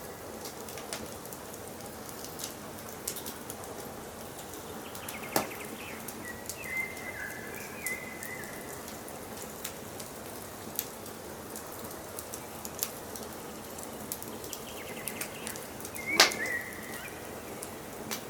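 Wood fire crackling steadily with scattered sharp pops, two louder ones about five seconds in and near the end. A bird sings short whistled phrases twice in the background.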